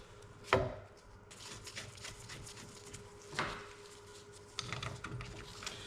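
Tools and parts being handled at the work: two sharp knocks about three seconds apart, then a run of faint clicks, over a faint steady hum.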